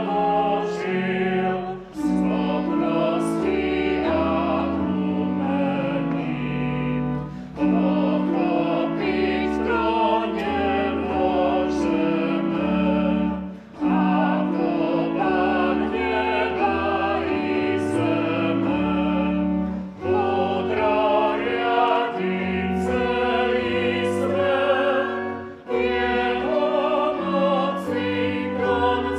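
Hymn sung with church organ accompaniment: sustained chords with deep bass notes under a wavering vocal melody, going line by line with a brief breath between phrases about every six seconds.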